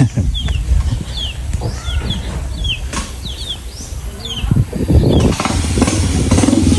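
Repeated short, high, falling chirps from small birds or chicks over a low rumble. About five seconds in, a motorcycle engine comes in and grows louder.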